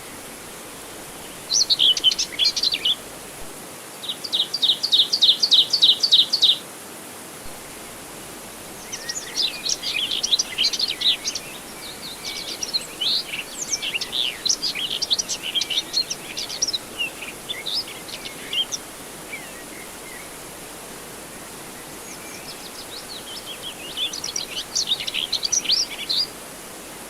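Songbirds chirping and singing in several bursts, one of them an evenly repeated run of notes, over a steady background hiss.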